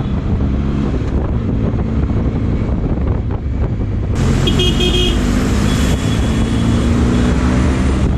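Motorcycle engine running under way with road and wind noise in traffic. Vehicle horns honk about four seconds in and again a little later.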